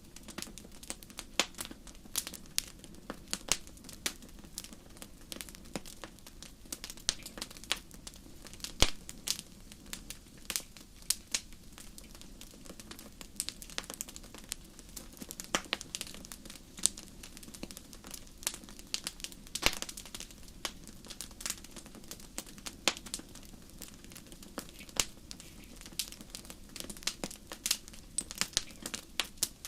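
Wood fire crackling: irregular sharp pops and snaps, several a second, over a faint steady low noise of the burning.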